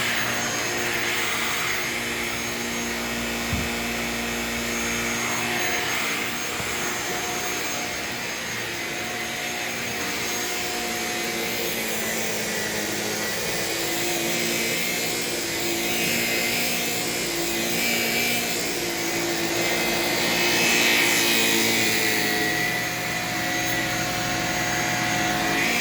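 Shark Rocket stick vacuum running steadily, its motor hum rising and falling a little in pitch and strength as it is worked over the floor.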